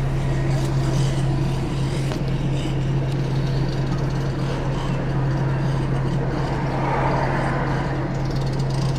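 Heavy diesel vehicle engine idling steadily, a constant low hum, with a brief extra swell of noise about seven seconds in.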